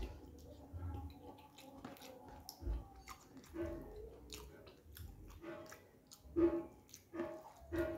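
Close chewing and mouth sounds of a man eating rice with his fingers, a run of short wet clicks and smacks. From about halfway, a faint short note repeats in the background.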